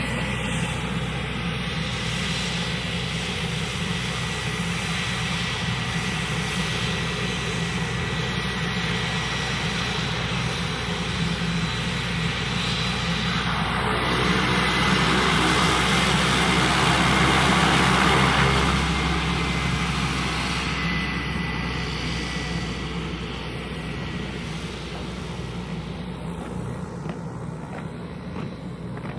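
Cessna Caravan's single Pratt & Whitney PT6A turboprop running, a steady propeller drone under a high turbine whine. It grows louder to a peak a little past halfway, then fades as the aircraft moves away.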